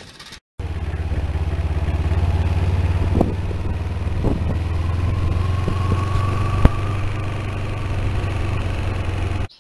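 Motorcycle engine running steadily while riding along, with a few light clicks and one sharper click about two-thirds of the way through.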